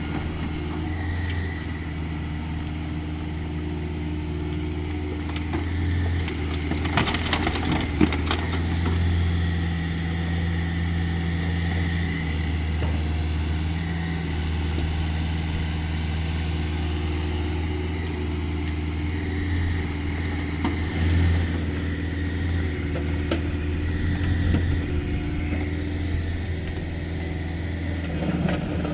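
CAT 305.5E2 mini excavator's diesel engine running steadily, its pitch shifting a little as the hydraulics take load. A burst of clattering knocks comes about seven to eight seconds in.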